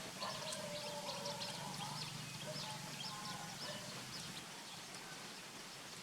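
Animal calls: many short high chirps repeating several times a second, with lower, drawn-out tonal calls through the first three seconds or so that then fade away.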